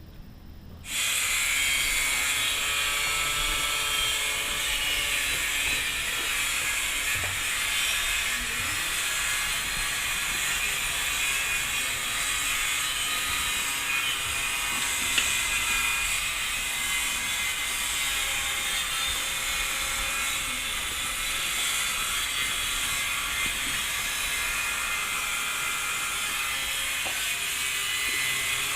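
Steady high-pitched mechanical whirring that starts abruptly about a second in and runs on without a break.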